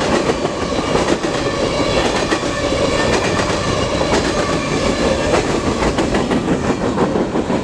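Freight train cars rolling past: steel wheels clattering over the rail joints, with a steady rumble of tank cars and covered hoppers.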